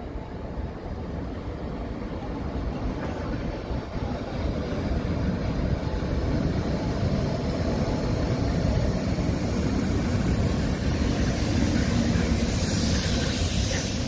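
Container freight train hauled by two electric locomotives running past, a steady rumble of wheels on rail that grows louder as the locomotives and then the container wagons draw level. A hiss builds up near the end.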